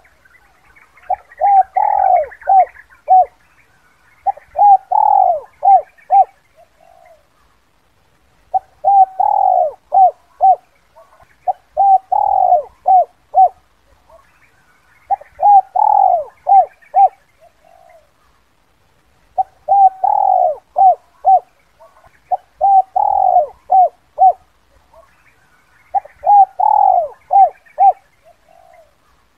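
Spotted dove (tekukur) cooing its 'kuk 2' call: a phrase of a longer opening coo followed by a few short coos, repeated about eight times, one every three to four seconds.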